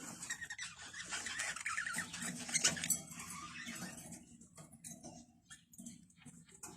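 Small caged birds making soft chirping and chattering calls in the first three seconds, followed by scattered light clicks and taps.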